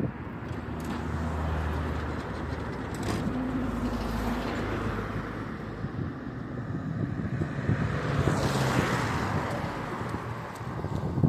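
KTM-5M3 tram running: a steady low hum with a rumbling noise over it, swelling about eight seconds in.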